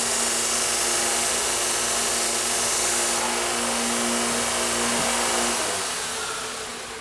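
Electric knife-sharpening machine running a 400-grit wheel with a steady hum and hiss. A little over halfway through it is switched off and the sound fades as the wheel winds down.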